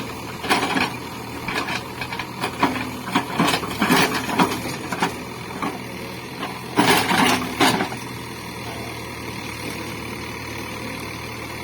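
Diesel engine of a Cat 424B2 backhoe loader running steadily, with several short, louder bursts of noise over it, the loudest about two-thirds of the way through.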